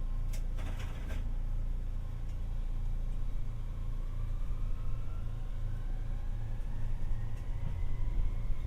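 Interior running sound of a Tokyu Setagaya Line 300-series tram accelerating. There is a steady low rumble and a few short clicks about a second in, then the traction motor's whine rises steadily in pitch as the car gathers speed.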